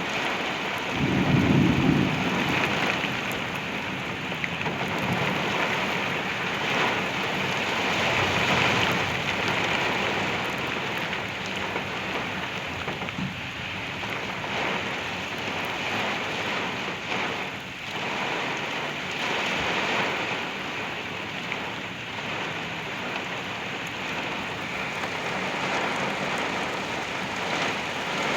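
Heavy wind-driven rain pelting a truck, heard from inside the cab, swelling and easing with the gusts. A low rumble comes about a second in.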